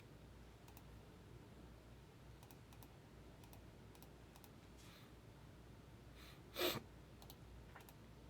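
Faint, scattered clicks of a computer keyboard and mouse, with one short, louder noisy burst about six and a half seconds in.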